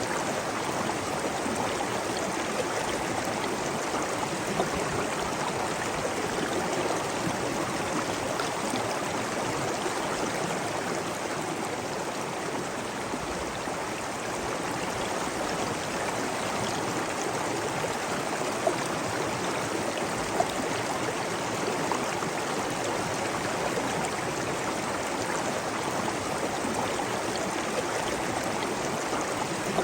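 Steady flowing water, an even rush like a stream or falls, with a few brief splashes or drips standing out.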